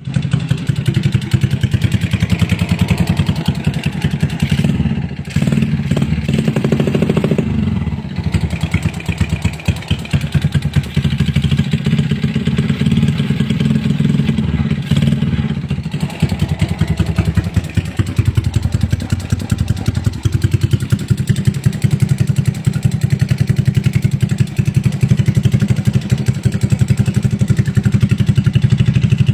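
Race-tuned Yamaha Jupiter Z single-cylinder four-stroke engine running loud, firing in rapid, sharp pulses, with the revs easing off briefly a few times.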